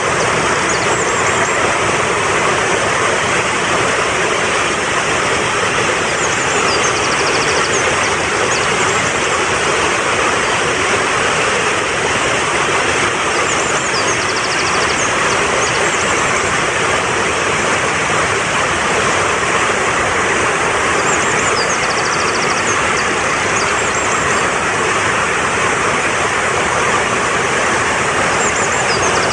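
Fast-flowing mountain stream rushing steadily over rocks, with small birds' high chirps and short trills recurring every few seconds.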